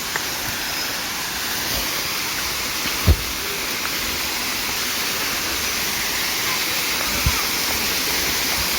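A low waterfall pouring, a steady rush of falling water, with two dull thumps about three and seven seconds in.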